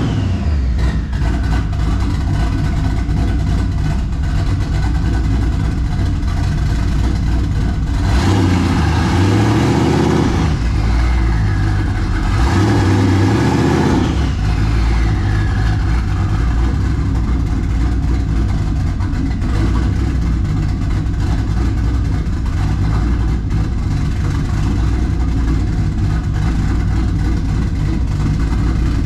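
A twin-turbocharged Ford 4.6-litre two-valve V8 is running on its first start. The engine speed rises twice for a couple of seconds, about eight and twelve seconds in, and a whine falls away after each rise. It is running very rich on oversized 60 lb injectors that are not yet tuned.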